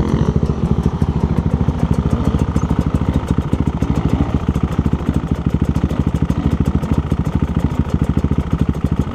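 Husqvarna dirt bike engine idling with a steady, even beat.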